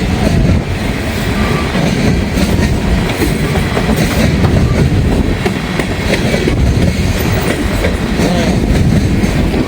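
Long freight train of empty gondola cars rolling past at close range: a steady rumble with the clickety-clack of wheels over the rail joints and faint squeals from the wheels.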